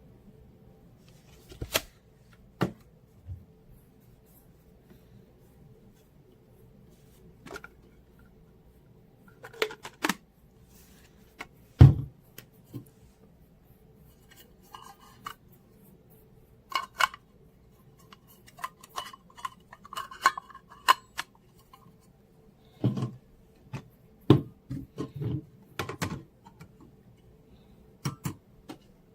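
Scattered clicks, taps and clatters of small hard objects being handled, loudest about twelve seconds in and busier in the second half, over a faint steady hum.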